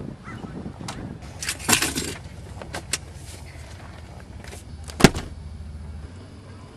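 A scatter of clicks, knocks and short rustles over a low steady rumble, with one sharp knock about five seconds in; the rumble stops about a second later.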